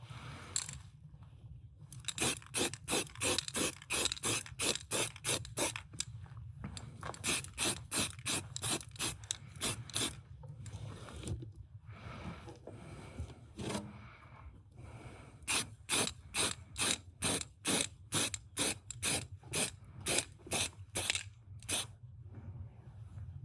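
A hand tool worked in quick repeated strokes, about three a second, in several runs separated by short pauses.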